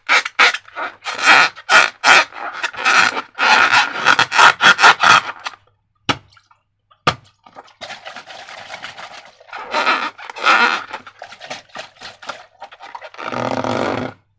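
Slime being squished and worked by hand, sticky wet squelches in quick bursts, then a pause about five and a half seconds in, followed by softer crackling squishes with a few louder ones.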